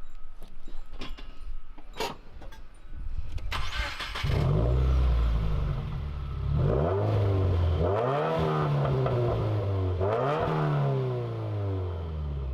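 2018 Subaru WRX's turbocharged flat-four, with its mufflers deleted, started semi-cold: a few clicks, then the starter cranks and the engine catches about four seconds in. It is then revved three times, rising and falling in pitch each time, and settles back to idle near the end.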